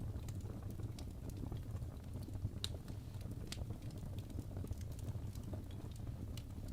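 Wood fire burning in a fireplace: a steady low rumble of flame under irregular sharp crackles and pops, with a couple of louder pops about two and a half and three and a half seconds in.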